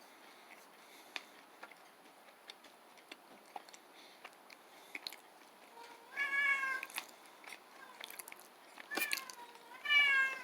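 A cat meowing twice in the second half, each a short pitched call. Before that, faint clicking chewing sounds as the granola bar is eaten.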